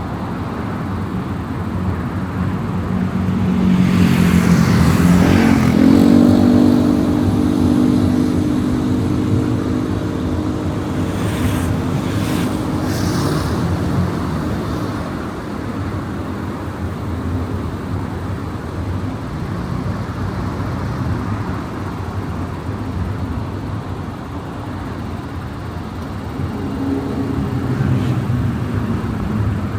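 Car driving on a highway with steady road and tyre noise. About four seconds in, an engine note swells and rises in pitch, then holds for a few seconds. Brief whooshes of passing traffic follow in the middle, and another engine note comes up near the end.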